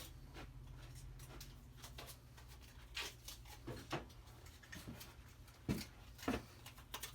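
Scattered light knocks and clicks of things being handled, a few sharper ones about three and six seconds in, over a faint steady low hum.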